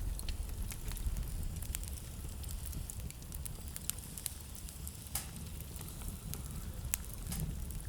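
Wood fire crackling, with irregular sharp pops over a steady low rumble. The loudest pops come about five and seven seconds in.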